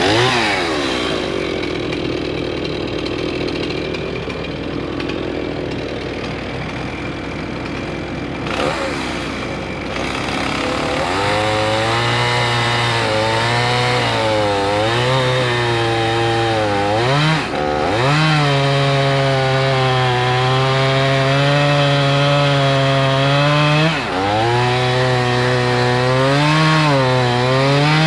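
Stihl MS311 two-stroke chainsaw cutting through a spruce log. The first stretch sounds rough and noisy; from about a third of the way in the saw holds a steady high engine note, which dips and recovers as it bogs in the cut near two-thirds and again near the end.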